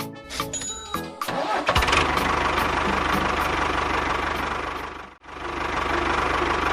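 A short stretch of music, then an engine starts up about two seconds in and runs steadily with an even low pulse. It drops out abruptly for a moment near the end, then runs again.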